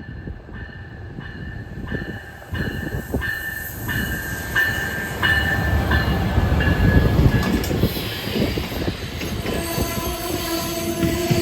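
Amtrak Northeast Regional passenger train hauled by a Siemens ALC-42 Charger diesel-electric locomotive, coming up and passing close by. Its rumble grows louder over the first several seconds, under a ringing that repeats about every two-thirds of a second. Steady tones come in near the end.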